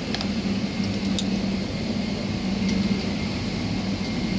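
Steady hum of a parked Boeing 777-300's cabin air-conditioning, with a few light clicks.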